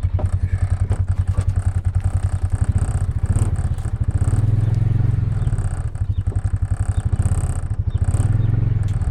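A farm vehicle's engine running with a fast, even, low pulsing beat. It grows louder for a stretch around the middle and again near the end.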